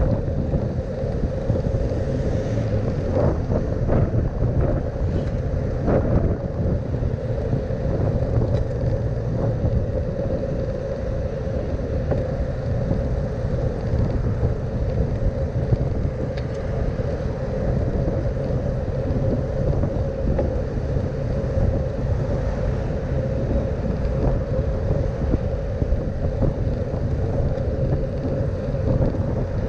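Steady low rumble of wind and road noise on a camera riding on a bicycle, with a constant mid-pitched hum and a few light clicks and rattles in the first few seconds.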